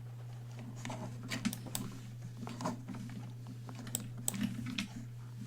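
Scattered light clicks and taps at uneven intervals over a steady low hum.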